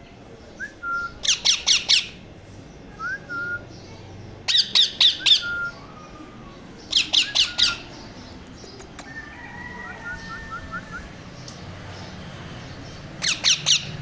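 Green parrot chicks squawking: four bursts of shrill calls in quick succession, about four calls per burst, with softer short chirps and whistles between the bursts.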